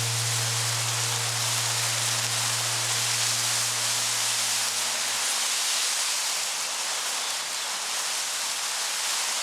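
Steady, even hiss of outdoor background noise. A held low note of background music sounds under it and fades out about five seconds in.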